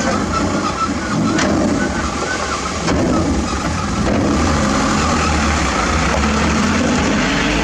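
Heavy diesel construction machinery running steadily, with two sharp knocks in the first few seconds.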